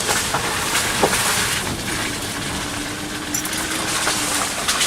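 Car driving slowly over a muddy dirt track: steady engine and tyre noise with a few short crunches and knocks from the wheels.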